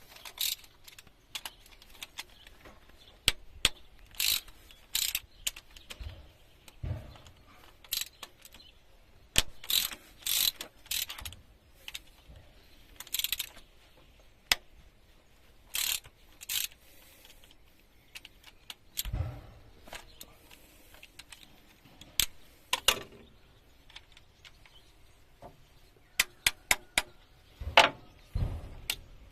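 Ratchet wrench clicking and metal hand tools clinking on engine fasteners, in short bursts with pauses between, with a few duller knocks.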